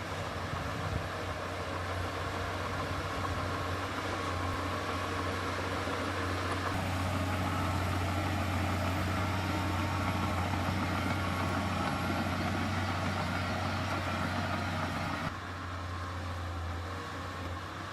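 Heavy diesel engine of earthmoving machinery running steadily with a deep hum. The sound shifts about seven seconds in and drops suddenly in level about fifteen seconds in.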